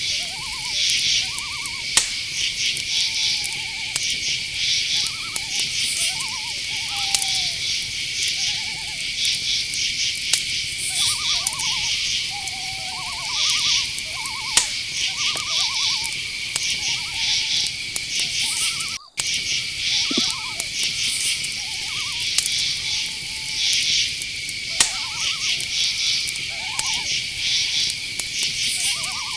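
Crickets chirping in a steady chorus, with short owl hoots repeated every second or two throughout. The sound cuts out for a split second a little past halfway.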